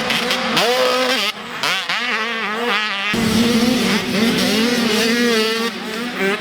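Several dirt bike engines revving at high pitch, rising and falling as the bikes race around the track.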